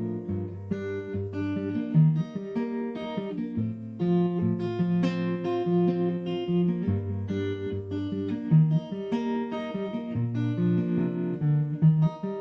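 Acoustic guitar played solo in an instrumental break between verses: picked bass notes alternating under strummed and picked chords in a steady rhythm.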